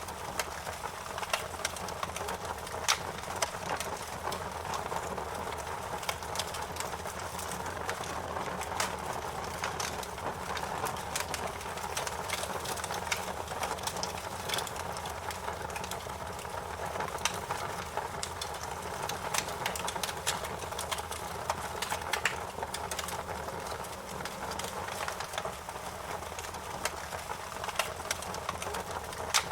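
Wood fire crackling: a steady hiss of flames with frequent sharp pops and snaps.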